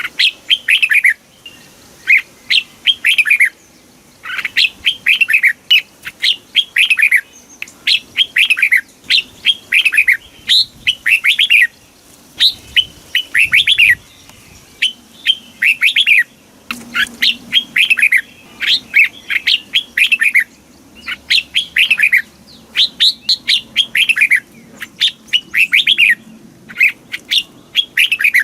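Red-whiskered bulbul singing: quick phrases of clear whistled notes that slide downward, repeated again and again with short pauses between phrases.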